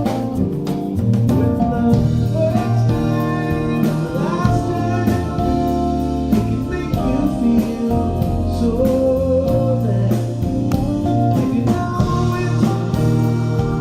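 A live band playing a song, with guitar, bass and drums under a wandering melodic lead line.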